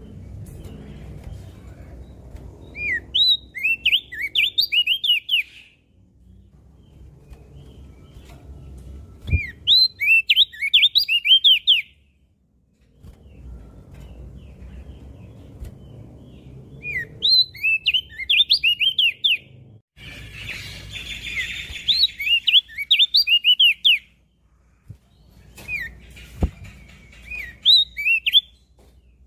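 Opior jambul (crested white-eye) singing: repeated bursts of quick, high, chirping notes sweeping up and down, each phrase lasting two to three seconds, coming about every six or seven seconds over a low background rumble.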